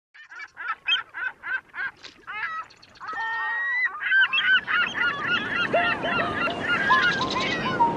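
Birds calling in short repeated notes, about three or four a second, then from about three seconds in many calls overlapping in a busier chorus over a rising background hiss.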